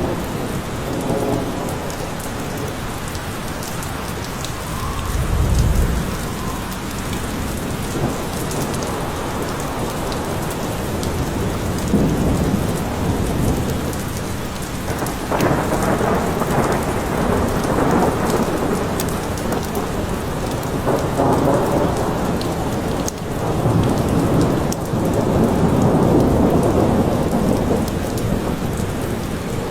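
Steady rain falling in a forest, with rolls of thunder rumbling over it and swelling up several times.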